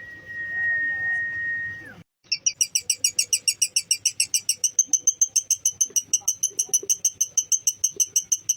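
A steady high whistle for about two seconds, dropping in pitch as it ends. After a sudden break comes a lovebird's ngekek: a long, fast chattering trill of sharp chirps, about seven a second, running on without pause.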